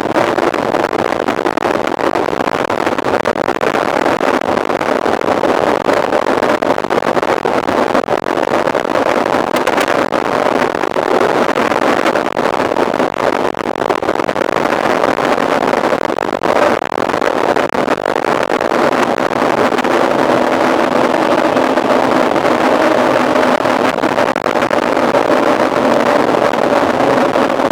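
Steady rush of wind over the microphone of a camera riding on a mountain bike at speed, with a faint steady hum from the tyres.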